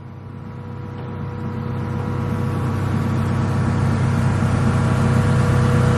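A steady mechanical hum from a motor or engine, with a low drone and a faint higher tone, growing gradually louder.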